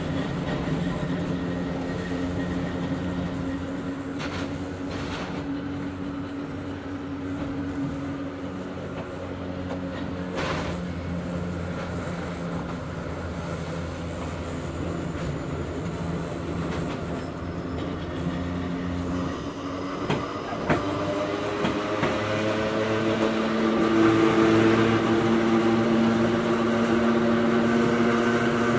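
Hakone Tozan Railway Moha 1 electric car's nose-suspended (tsurikake) traction motors and gearing humming as the car runs, heard from inside the car, with a few knocks from the wheels on the track. From about 21 seconds in, the hum rises in pitch and gets louder.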